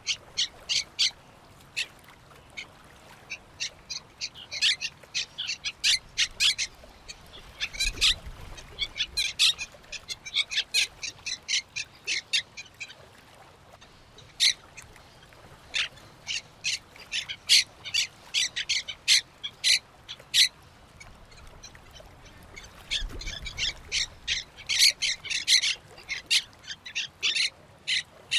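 Birds chirping and squawking in quick runs of short, high calls that come and go in clusters.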